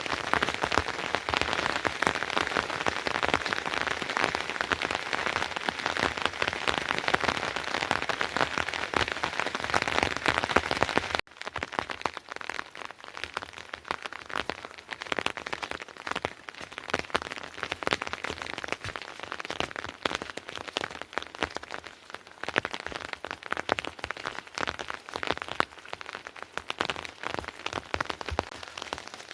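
Steady rain falling, a dense patter of many drops hitting a surface. About eleven seconds in it cuts off abruptly to a quieter, sparser patter of separate drops.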